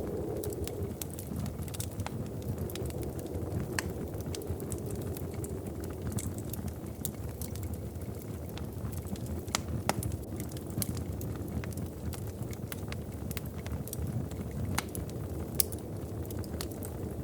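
Wood fire crackling in a fireplace: irregular sharp pops and snaps over a steady low rumble, with the sharpest pops about ten seconds in and near the end.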